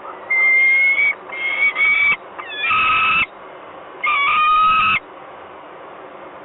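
Peregrine falcon calling at its nest: four loud, drawn-out calls in quick succession, each under a second, ending about five seconds in. A steady hiss runs underneath.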